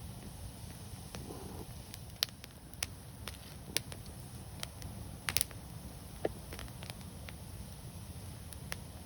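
Wood fire crackling: scattered sharp pops at irregular intervals over a low steady rumble, with a close double pop about halfway through the loudest.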